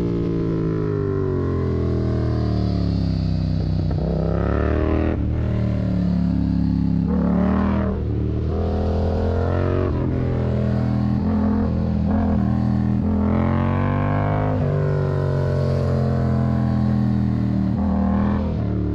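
Yamaha MT-07's 689 cc parallel-twin engine through a Mivv aftermarket exhaust, ridden on the road. The revs sink at first, then rise and drop sharply again and again as the bike accelerates through the gears and backs off.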